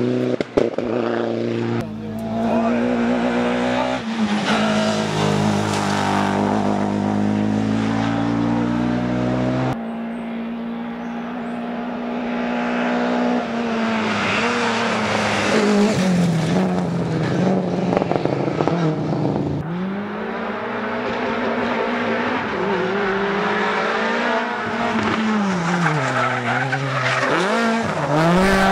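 Rally car engines revving hard on a special stage, the pitch climbing and dropping repeatedly through gear changes and braking, with a few sharp bangs near the start. The sound changes abruptly about ten seconds in, as a different car takes over.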